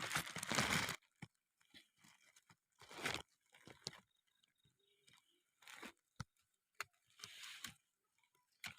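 Leaves being picked and handled by hand: a loud crunching rustle in the first second, then scattered short crunches, snaps and clicks.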